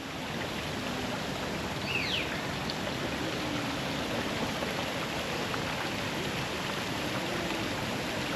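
Steady rush of falling water from a waterfall, with a faint bird call about two seconds in.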